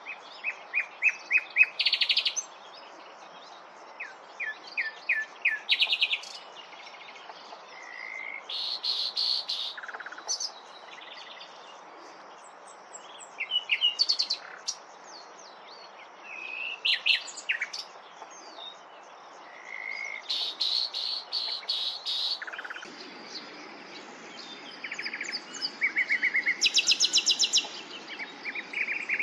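Common nightingale singing: separate short phrases with pauses of a second or two between them, made of fast runs of repeated notes, rattling trills and brief whistles.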